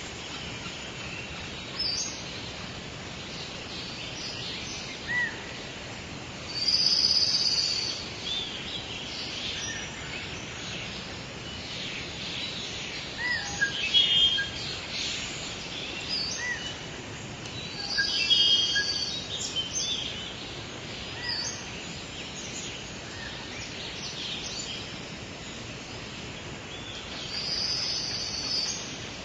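Outdoor nature ambience of wild birds singing and chirping over a steady background hiss, with a louder burst of song every several seconds.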